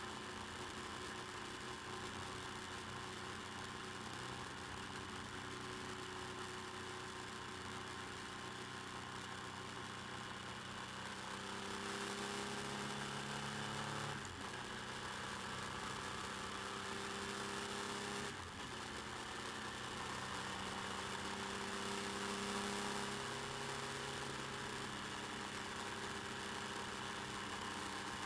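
Motorcycle engine running under way, heard through a bike-mounted camera microphone over steady wind and road rush. The engine note climbs, breaks off briefly about halfway through and again about two-thirds through, and climbs again each time, as the bike changes up.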